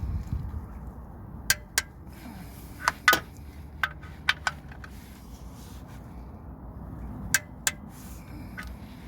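Light metallic clinks and clicks, about nine, scattered unevenly, the loudest about three seconds in, over a low steady rumble: tools and metal parts being handled during an engine oil change.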